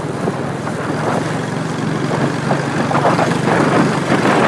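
Motorcycle engine running steadily on the move, a constant low hum under rushing noise.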